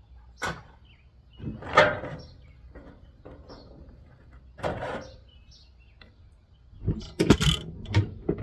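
Air-conditioner parts being handled during dismantling: a few separate knocks and scrapes, then a quick cluster of sharp clanks near the end.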